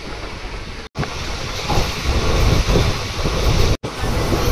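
Wind buffeting the microphone at the open door of a moving passenger train, over the train's running rumble. The sound cuts out abruptly twice, about a second in and near the end.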